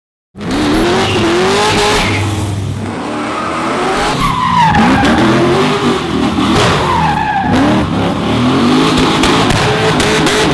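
LS-based V8 in the swapped BMW E36 M3 cuts in suddenly and revs up and down again and again while its tyres spin and squeal in a smoky burnout.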